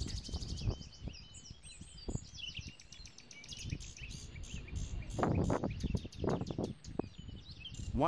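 Small birds chirping over and over in quick short notes, over a low, uneven rumble, with a few louder, fuller sounds about five to six seconds in.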